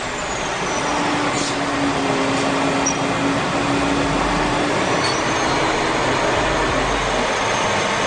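Heavy equipment running with a steady, even machinery noise, and a faint steady hum in the first half.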